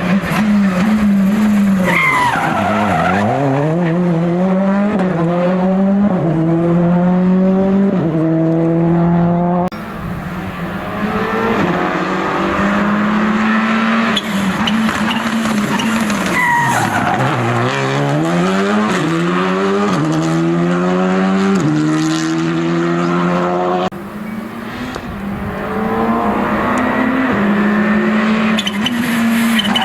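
Rally car engines under hard acceleration: each car's engine note drops as it slows for a corner, then climbs in quick steps through several upshifts. The sound cuts abruptly to another car about ten seconds in and again a few seconds before the end.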